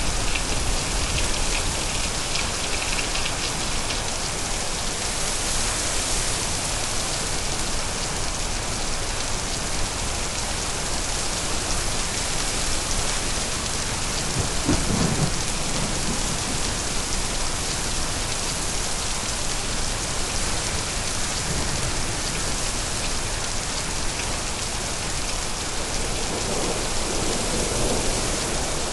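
Steady rain falling hard, with a short low roll of thunder about halfway through and another rumble starting to build near the end.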